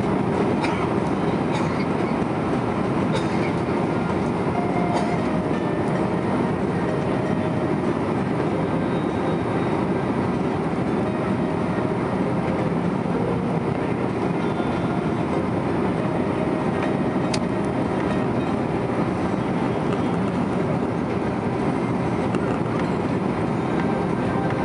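Steady roar of an Airbus A330 airliner heard inside the passenger cabin in flight: engine noise and rushing air, even in level, with a few faint clicks.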